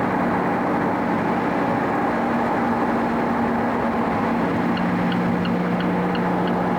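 Car cruising at a steady speed, heard from inside the cabin: an even engine hum over tyre and road noise. Near the end a light, regular ticking starts, about three ticks a second.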